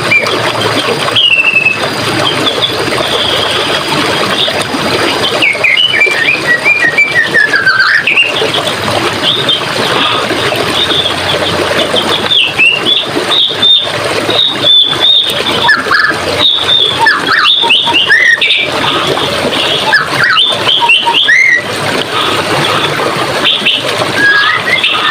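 Running water, a steady rushing flow, with several forest birds chirping and singing over it throughout in short rising and falling notes.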